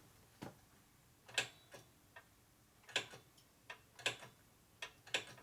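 Irregular sharp clicks and light taps, about eight in five seconds, from hand tools and brake-bleeding parts being handled at a motorcycle brake bleeder.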